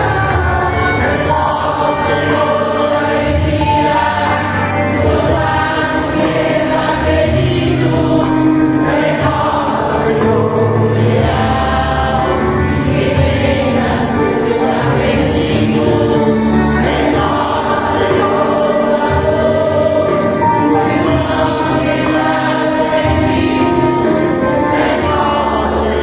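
Congregation or choir singing a gospel hymn with instrumental accompaniment, steady and full throughout.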